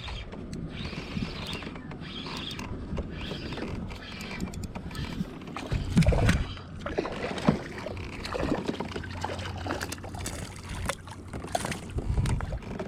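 Small speckled trout being reeled in and landed from a kayak: water splashing and sloshing, with scattered clicks and knocks against the hull. The loudest knocks come about halfway through.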